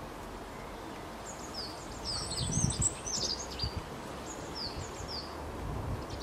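Small songbirds chirping: scattered short, high notes that fall in pitch, thickest in the middle, over a steady outdoor hiss, with a brief low rumble about two and a half seconds in.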